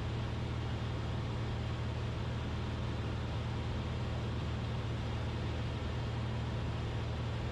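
Cessna 172RG's four-cylinder Lycoming engine and propeller running steadily at cruise power, heard as an even drone from inside the cabin.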